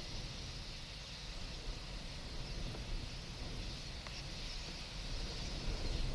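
A distant, massed chorus of a large flock of waterbirds, merged into a steady high hiss with no single call standing out, over a low rumble of wind or an idling vehicle.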